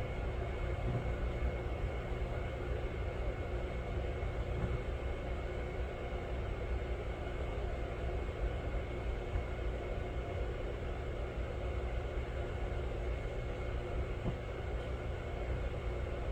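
Steady low mechanical rumble with a faint constant hum, unchanging throughout.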